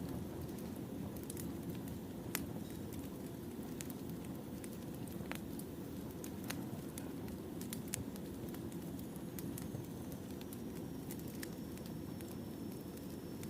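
Wood fire burning: a steady low rumble of flames with sharp pops and crackles at irregular intervals.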